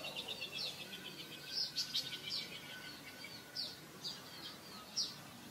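Small birds chirping: sharp, high down-slurred notes repeated every half second or so, mixed with fast rattling trills.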